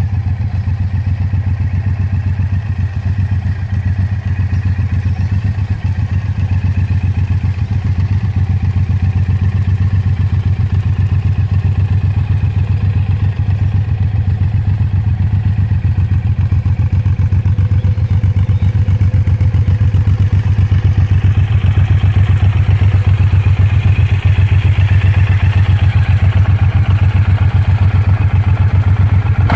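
Suzuki Intruder 1800's V-twin engine running steadily through its exhaust at a low, even, pulsing beat, with the pitch and level rising slightly in the last third.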